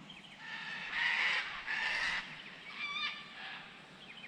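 Harsh, honking bird calls: two longer rasping calls, then a shorter wavering one about three seconds in.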